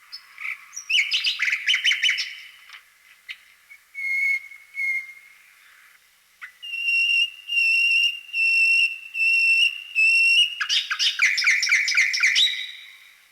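A bird singing: fast trills, short whistled notes and a long held whistle with a pulsing edge, then a louder burst of trills near the end.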